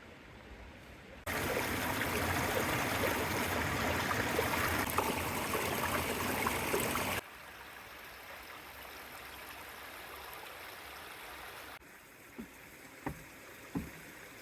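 Flowing creek water, a steady rushing hiss that starts and stops abruptly. It is followed by a quieter outdoor hush with a few soft low thumps near the end.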